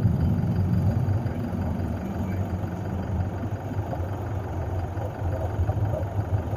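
A low, steady rumble that slowly gets quieter.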